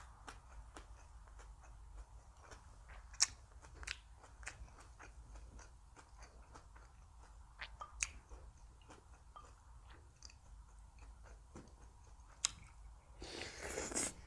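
A person chewing food close to the microphone, with crisp crunches and sharp clicks scattered throughout. A louder rustling hiss lasts about a second near the end.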